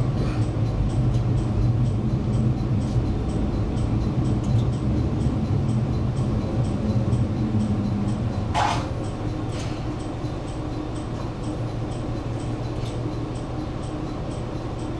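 Diesel railcar heard from inside the cabin: steady low engine and wheel rumble. About halfway through there is a brief hiss, and the rumble then quietens as the train slows alongside a station platform.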